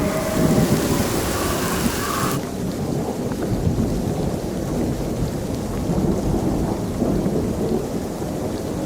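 Thunder rumbling on and off in long low swells under steady rain. A loud hiss of heavy rain at the start cuts off suddenly about two seconds in, leaving the rumble and the softer rain.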